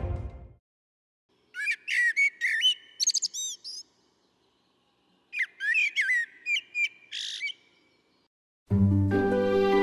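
A songbird singing two short phrases a couple of seconds apart, each a quick run of chirps and rising and falling whistled notes. Music fades out just before the first phrase and starts again near the end.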